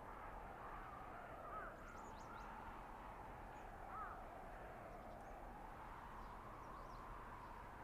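Blizzard wind in a winter forest, a steady whooshing noise, with a few short, faint high chirps over it.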